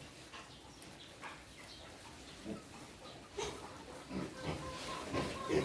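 Pigs grunting in short, scattered grunts that come more often and louder in the second half.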